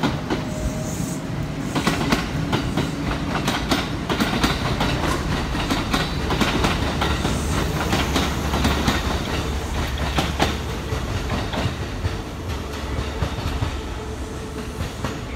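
Kintetsu commuter train running past and away over the station's many points, its wheels clattering over the rail joints and switches in quick irregular clicks above a low rumble. The clatter thins out as the train draws away near the end.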